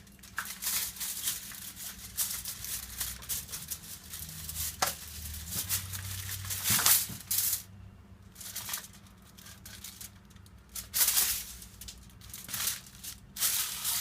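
Irregular rustling, crinkling and scraping from hands handling craft materials, over a steady low hum.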